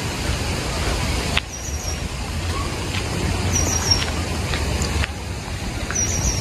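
Outdoor garden ambience while walking a path: a steady low rumble, with a small bird's high call of three or four quick notes repeating about every two seconds.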